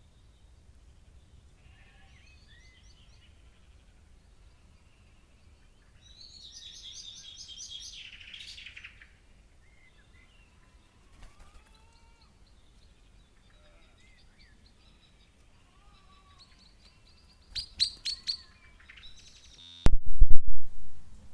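Birds calling in short chirps and whistles, with a dense trill a few seconds in and a few sharp clicks near the end. Near the end a loud, distorted burst covers everything for about a second.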